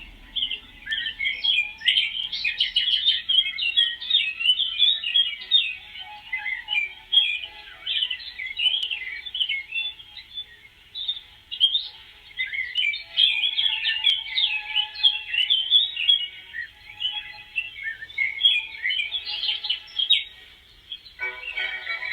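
A dense chorus of many small birds chirping and twittering at once, with short rapid high chirps overlapping throughout. Music comes in about a second before the end.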